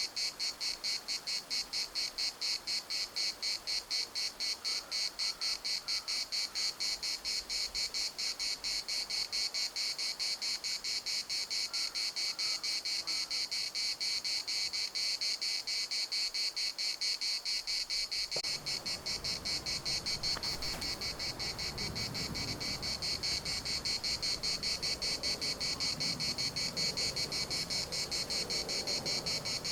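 Chorus of cicadas buzzing in a fast, even pulse, high-pitched and steady. A low rumbling noise rises beneath it about two-thirds of the way through.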